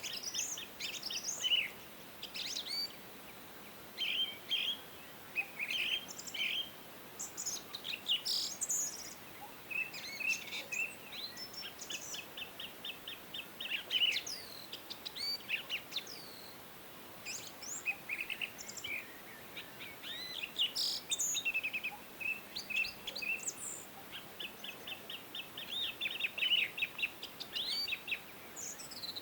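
A chorus of songbirds singing and chirping, with overlapping short whistled notes and several rapid trills, over a faint steady hiss.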